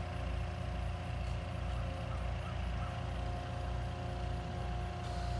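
Diesel engine of a compact construction machine running steadily, with a faint steady whine over the low rumble.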